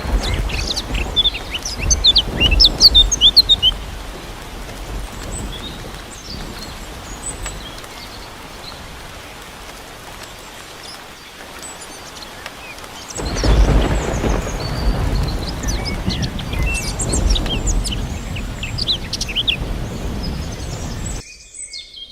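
Birds chirping in many short high calls, over a low rumbling noise that swells during the first few seconds, eases off, then swells again in the second half. All of it cuts off suddenly near the end.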